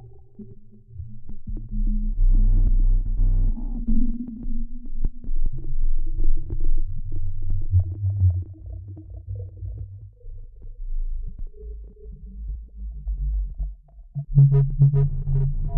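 Distorted electronic drone with heavy sub-bass and a fuzzy, overdriven grind, made as a scary sound effect. It swells in over the first two seconds, thins out and nearly drops away about fourteen seconds in, then comes back louder and rougher.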